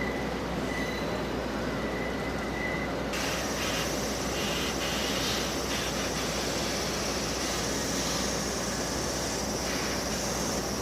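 Steady mechanical rumble and drone of a limestone freight train in the station yard, with a sudden brightening of the noise about three seconds in.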